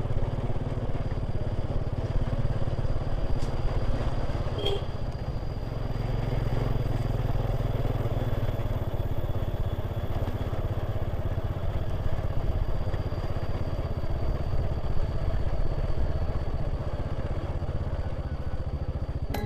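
Motorcycle engine running steadily, a continuous low rumble with no change in pace.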